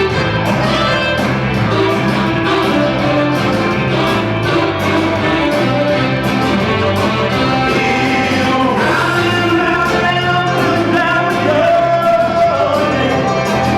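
Band music with a singer: instruments over a steady beat, with a sung melody that stands out more clearly in the second half.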